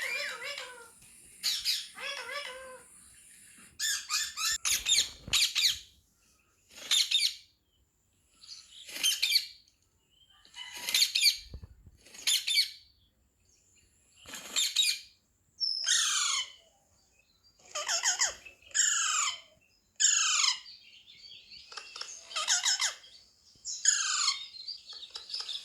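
Parrot calling over and over, short shrill screeches about every one to two seconds, several of them falling in pitch.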